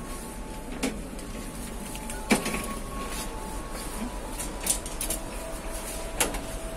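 Steady rumble inside a passenger train carriage pulling out of a station, with a sharp clack or knock every second or so, the loudest about two seconds in, and faint thin squealing tones.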